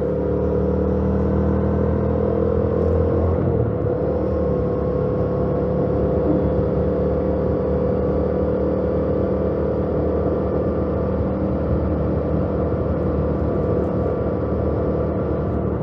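2018 Yamaha MT-07's parallel-twin engine through its stock exhaust, running at a steady cruising speed under a haze of road and wind noise. The engine note wavers briefly about three to four seconds in, then holds steady again.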